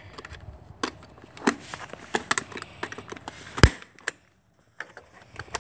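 Scattered clicks and knocks of hand tools being handled, with one sharp, loud knock about two-thirds of the way in. The sound cuts out completely for about half a second soon after.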